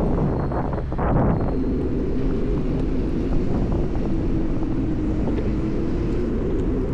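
Steady low rumble of wind and road noise on a camera carried along on a moving bicycle, with a faint hum underneath and a brief louder gust about a second in.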